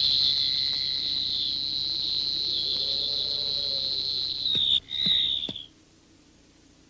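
A steady, high-pitched whistle-like tone held for nearly five seconds, then cut off and followed by a second short one.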